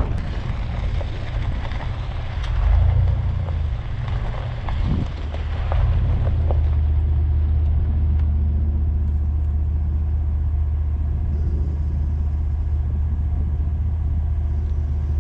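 Van engine running at low speed, heard from inside the cab: a steady low drone, with a few knocks and rattles in the first several seconds.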